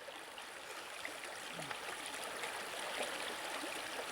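River water flowing in a steady, even rush, with faint small ticks of water through it.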